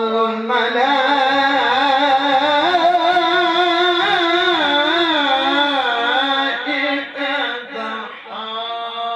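Man reciting the Quran in melodic tilawah style, holding one long, ornamented vowel whose pitch wavers up and down, with a brief break about eight seconds in as he moves on to the next word.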